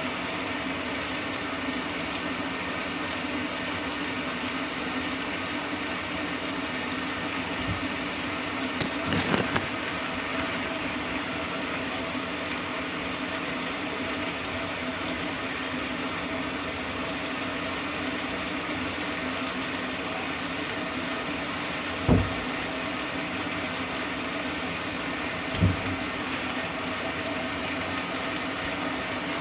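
Maytag apartment-size washer filling with water through its fill system: a steady rush of water with a steady hum, broken by a few short dull knocks. The fill system's anti-backflow part has been repaired and no longer leaks.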